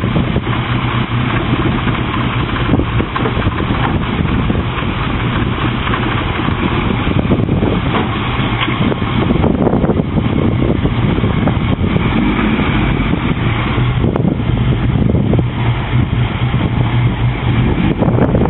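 Opel Kadett E's engine, fitted with individual throttle body injection and a Remmus sport exhaust, running at a steady idle.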